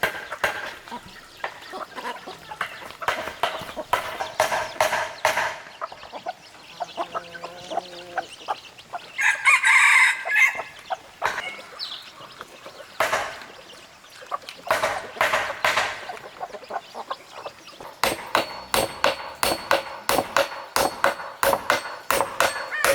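Domestic chickens clucking, with a rooster crowing once loudly about ten seconds in. Near the end a rapid run of sharp, ringing knocks begins, like hammering.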